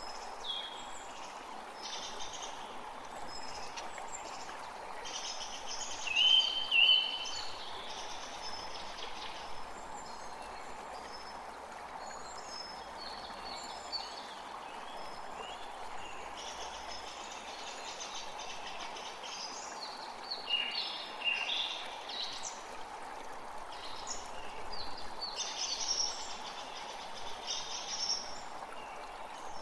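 Forest creek running steadily under songbirds singing and calling, with a loud whistled phrase about six seconds in and more bursts of song later on.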